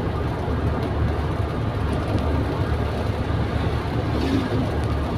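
Toyota Kijang Super's carburetted engine, fitted with a Kijang Kapsul carburettor, running steadily with road noise heard inside the cabin, cruising at about 60 km/h on a light, constant throttle.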